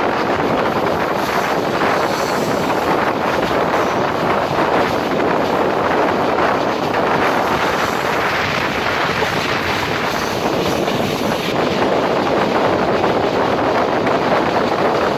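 Moving passenger train heard from on board at speed: a steady rush of wheel and track noise mixed with wind buffeting the microphone.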